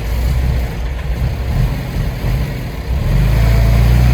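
Heavy diesel engine of earthmoving machinery running, growing louder with a steady low drone from about three seconds in.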